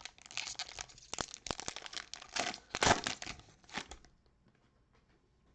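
Cellophane wrapper of a Prizm cello pack of trading cards being torn open and crinkled, a dense crackle that stops about four seconds in.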